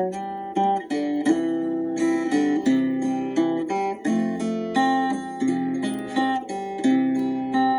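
Instrumental music with acoustic guitar, its plucked notes ringing on over held tones.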